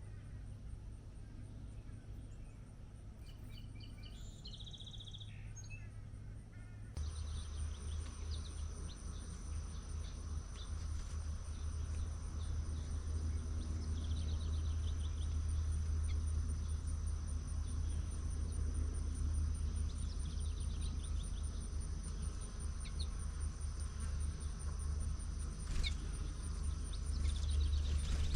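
Outdoor ambience of insects, crickets among them, calling steadily on a high note, with scattered short bird chirps and trills over a low steady rumble. About seven seconds in, the sound changes abruptly and the insect note grows louder.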